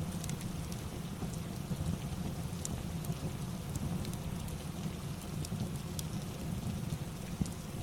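Steady rain ambience with a low rumble, mixed with scattered small sharp pops and ticks from a crackling fireplace.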